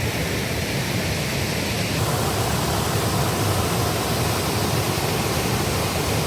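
Gurara Falls waterfall rushing steadily, a loud even roar of falling water with a slight change in tone about two seconds in.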